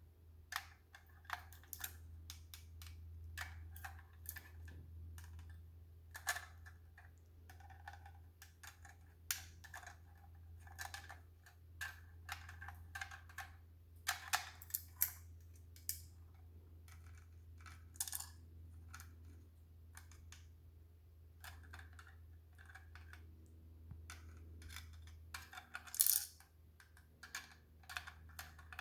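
A parrot working a puzzle game toy: irregular clicks and clacks of hard toy pieces being moved and knocked, some ringing briefly, with one louder clack near the end. A low steady hum runs underneath.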